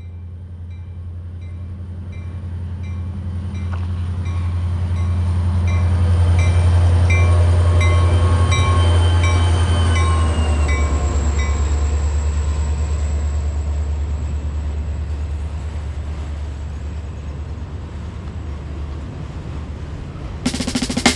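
Freight train's diesel locomotive approaching and passing, its low engine drone swelling and then dropping in pitch as it goes by about ten seconds in, then fading away. Ends with a sudden loud burst of sound.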